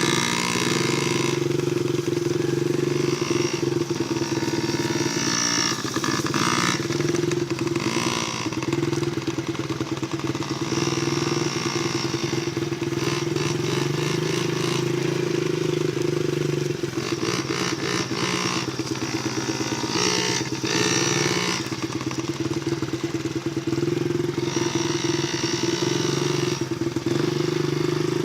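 Dirt bike engine running at a fairly steady speed, its sound swelling and fading every few seconds.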